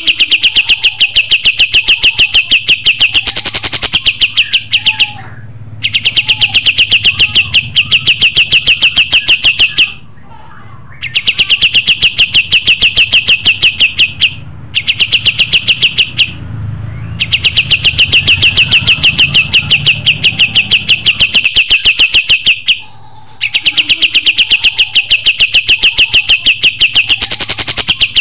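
Kapas tembak songbird singing: long, loud trains of rapid, evenly repeated high notes, each lasting several seconds, broken by pauses of about a second.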